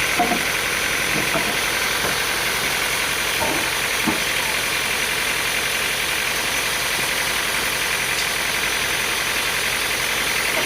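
Sawmill machinery running steadily, with a few faint knocks in the first few seconds.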